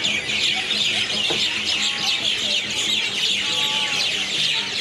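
Many birds roosting together in one tree, chirping loudly and without a break: a dense chorus of short, overlapping, downward-sweeping calls.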